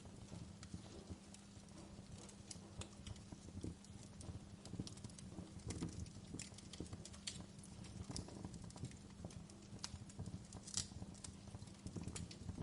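Wood fire crackling: burning logs give off irregular pops and snaps over a low, steady rumble, with one sharper pop about eleven seconds in.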